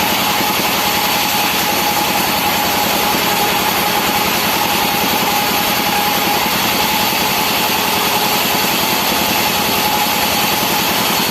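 Engine-driven sawmill machinery running steadily at a constant pitch, with an unbroken whine over the engine noise.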